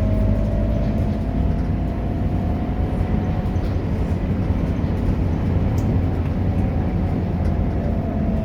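Scania K230UB bus's five-cylinder diesel engine running steadily while the bus is under way, with a faint whine above the engine note that rises a little and then fades.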